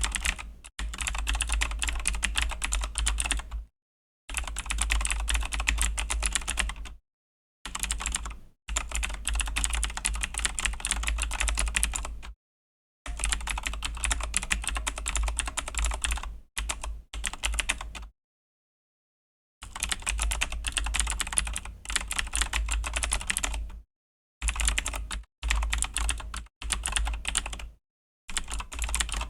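Fast typing on a Razer BlackWidow V3 mechanical keyboard with clicky Razer Green switches: dense runs of sharp key clicks lasting a few seconds each, broken by short pauses, the longest about two-thirds of the way through.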